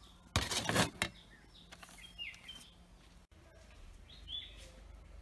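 A short burst of handling noise about half a second in, then a few bird chirps against faint outdoor background noise.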